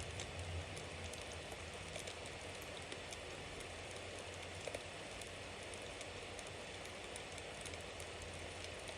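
Bonfire burning: a steady hiss and low rumble of flames, with many small crackles and one louder pop about halfway through.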